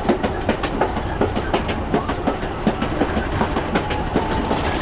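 Metre-gauge Chemins de Fer de Provence train running along the line: its wheels click over the rail joints in a quick, uneven clatter over a steady low rumble.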